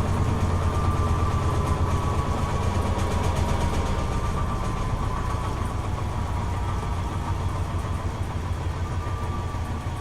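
Toshiba AW-42SEE4 fully automatic washing machine spinning: a steady low hum with a whine that drifts slightly lower while the sound gradually fades, as the drum slows at the end of the final spin.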